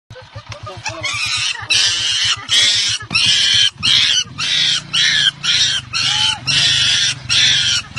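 Baby monkey screaming again and again: shrill, high cries repeating about twice a second, starting about a second in.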